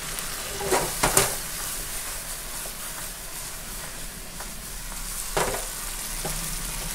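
Salmon head pieces sizzling in sauce in a nonstick wok while a wooden spatula stirs them. A few louder scrapes of the spatula against the pan stand out about a second in and again past five seconds.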